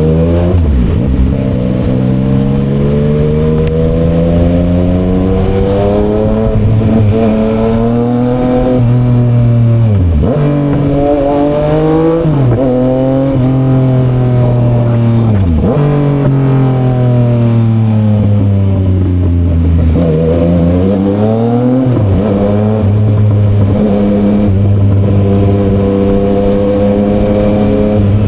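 Yamaha XSR900's three-cylinder engine through an SC Project aftermarket exhaust, ridden hard. The engine note climbs in pitch through the revs, drops sharply at each of several quick gear changes, and falls away more slowly when the throttle is rolled off.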